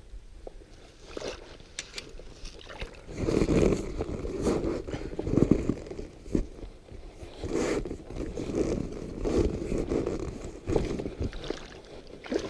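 Scraping and rubbing against an inflatable kayak's hull, coming in irregular bursts about once a second from a few seconds in.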